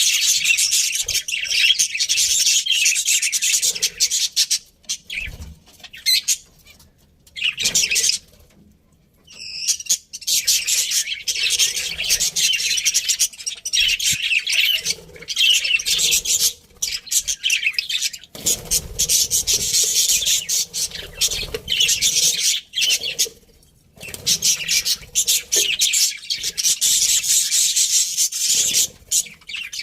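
Several budgerigars chattering and warbling, a fast, scratchy, high-pitched twittering that comes in long stretches broken by short pauses, with one clear whistled note about nine seconds in.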